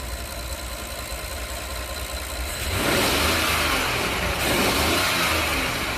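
Rolls-Royce Phantom's 6.75-litre twin-turbo V12 engine idling, then revved from about three seconds in, with the pitch rising and falling before it eases off near the end. The engine runs smoothly enough that a coin balanced on it stays put.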